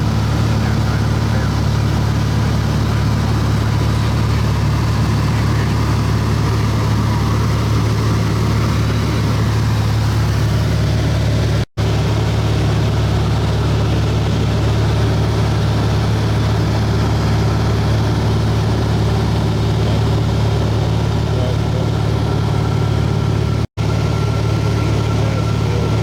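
Light aircraft's piston engine and propeller droning steadily, heard inside the cabin in flight. The sound cuts out for an instant twice, near the middle and near the end.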